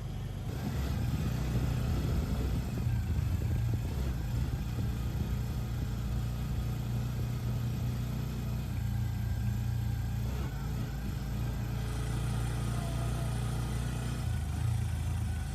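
Engine of a moving vehicle running steadily, with a low drone and road noise.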